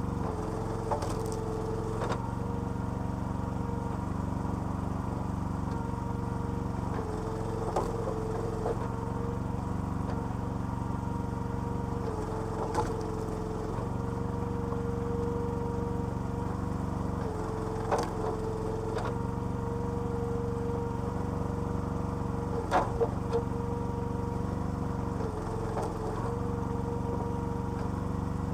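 Small petrol engine running a homemade hydraulic log splitter, its note shifting every few seconds as the pump takes up load and lets it go. Sharp cracks sound about ten times, typical of logs splitting under the ram.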